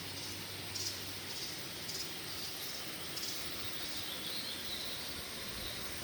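Rainforest insects: a steady high drone with a short, high chirp repeating about once a second, and a faint thin whistle near the middle.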